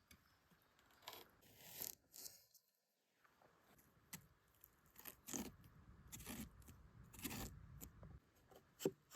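Faint, scattered short scrapes and clicks of handling sounds.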